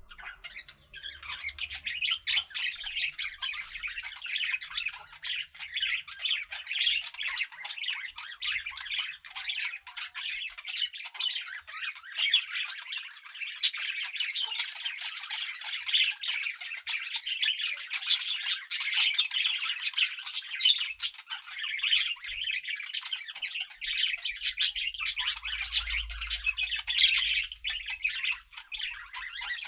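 Budgerigars chattering and warbling, a dense continuous stream of rapid chirps and squawks from several birds.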